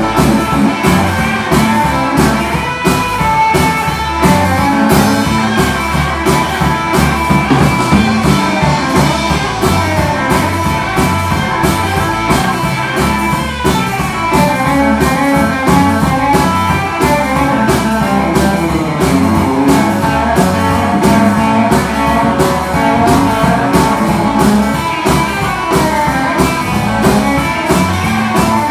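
Live rock and roll band playing an instrumental passage: guitar over a steady drum beat.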